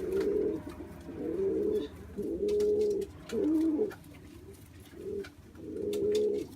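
Pet dove cooing: a run of about six low coos, each under a second long, with short pauses between.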